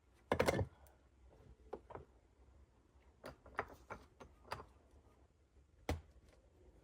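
Handling knocks and scrapes: a loud, short scraping clatter about half a second in, then scattered light knocks, and a single sharp knock near the end.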